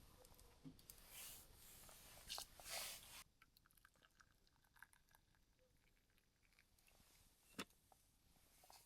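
Faint, short crunching sounds for about the first three seconds, then near silence broken by a single click near the end.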